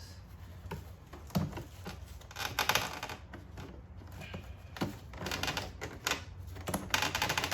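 Plastic air filter housing parts clicking and rattling as they are handled and fitted back together, in three quick runs of clicks.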